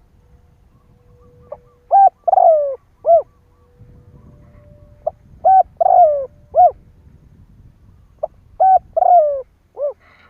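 Spotted dove cooing: three repeated phrases about three and a half seconds apart, each a short note, then a longer rolling coo that falls in pitch, then a closing note.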